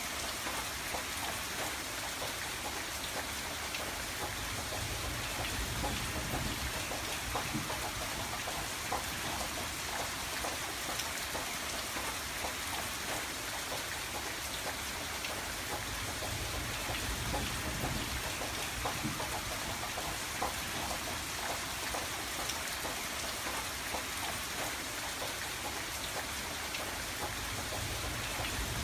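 Steady rain pattering against a window pane, with many small drop ticks over a constant hiss.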